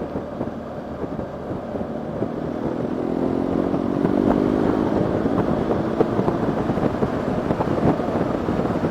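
Motorcycle engine running under way with wind rush on the helmet mic; about three seconds in the engine note climbs as the bike accelerates, then settles.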